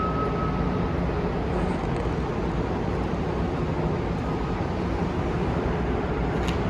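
Steady background din with no distinct events. A faint steady tone is heard in the first second, and a single click near the end.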